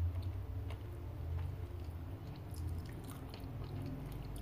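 Close-up biting and chewing on chicken feet eaten by hand, with many small faint clicks scattered through. A low steady hum runs underneath.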